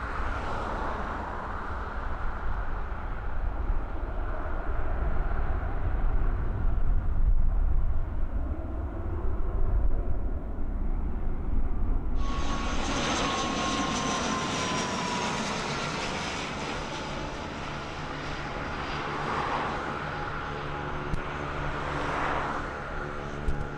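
Aircraft engines running at an airfield, first as a low rumble. About halfway through, the sound switches abruptly to a brighter, louder engine noise with a slowly falling whine. Near the end a steady, multi-toned engine hum comes in.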